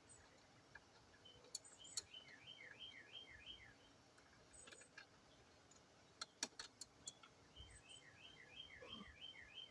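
A bird singing two runs of quick repeated chirps, the first starting about two seconds in and the second near the end. A few sharp clicks and taps of parts being handled come in between and are the loudest sounds.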